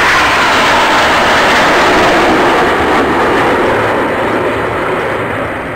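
F-5 jet fighters of an aerobatic display team roaring past in a flyby, the pitch dropping as they pass, then the roar fading toward the end.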